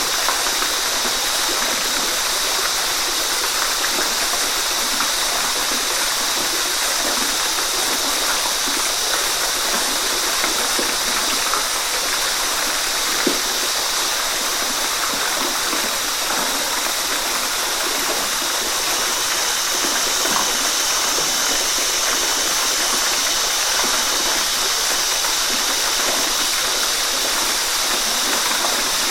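Water of a small waterfall splashing and running steadily, an even rush that is mostly hiss and splash with little deep rumble.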